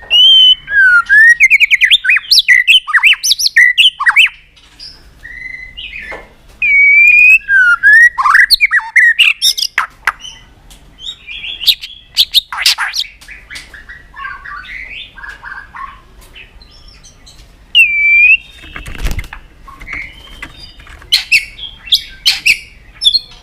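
White-rumped shama singing a run of quick, varied whistled phrases that glide up and down, mixed with sharp click notes.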